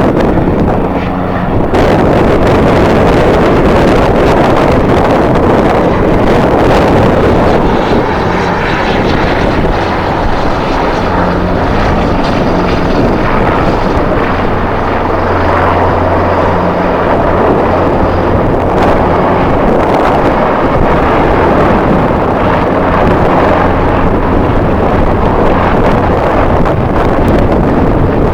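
Loud, continuous jet airliner engine noise, with strong wind buffering the microphone. The sound steps up about two seconds in, and a faint high whine runs through the middle.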